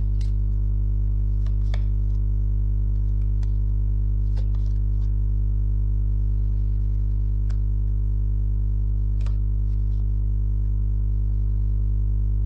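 Steady background music of low, unchanging sustained tones, with a few faint clicks over it.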